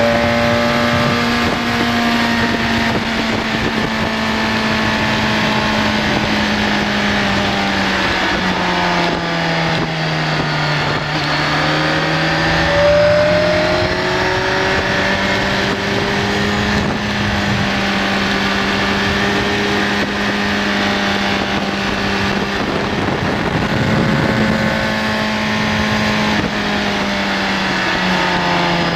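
BMW K1200S's inline-four engine running at speed, over a rush of wind noise. The engine note drops about a third of the way in, climbs again soon after, and drops once more near the end as the rider eases off and opens up through the bends.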